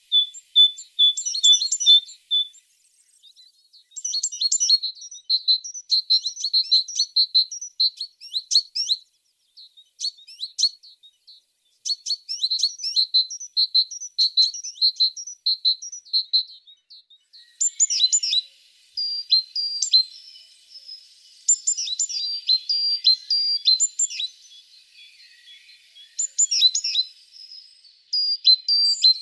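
A tit singing: phrases of short, high, quickly repeated notes broken by brief pauses, growing busier with overlapping notes in the second half.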